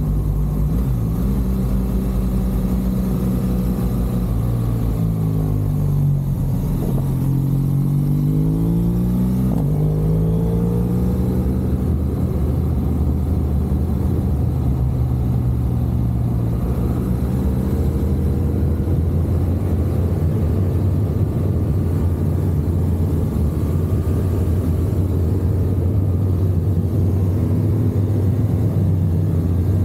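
BMW R1200 GSA's flat-twin boxer engine running as the motorcycle rides along. Its pitch climbs and drops several times between about one and eleven seconds in, then holds fairly steady.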